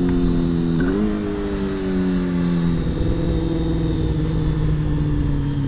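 Honda CBR600 inline-four engine running while riding, its revs slowly dropping with a short rise about a second in.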